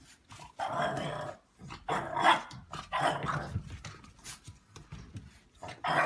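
A dog growling and barking in four rough, short bursts.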